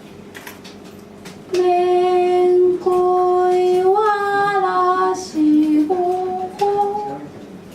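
A high voice singing a slow melody of long held notes, starting about one and a half seconds in after a quiet stretch.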